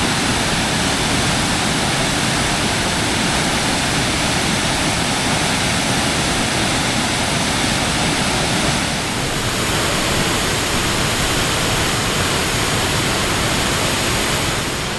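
Waterfall: a steady rush of falling water, easing slightly in level a little past halfway.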